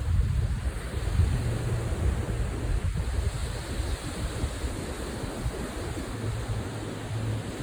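Strong gusty wind buffeting the microphone, a steady rumbling rush that rises and falls with the gusts.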